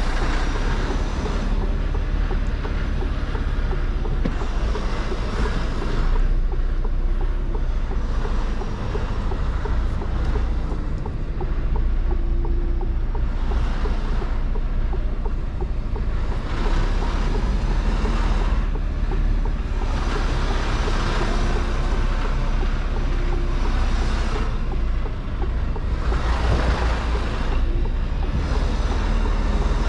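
Mercedes Actros truck running on the move, a steady low engine rumble under road and wind noise that swells and eases every few seconds.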